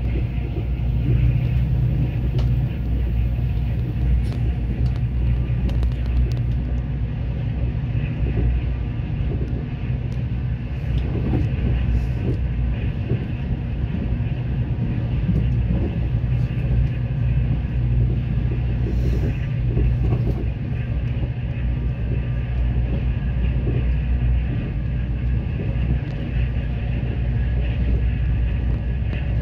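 Mugunghwa passenger train running at speed, heard inside the carriage: a steady low rumble of wheels on the track and the car's running gear.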